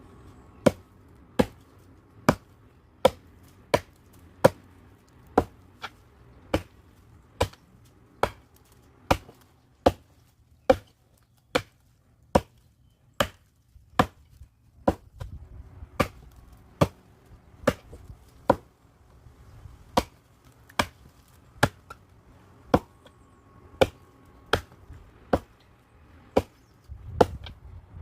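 Firewood being chopped by hand: a steady run of sharp, single chopping blows, a little more than one a second.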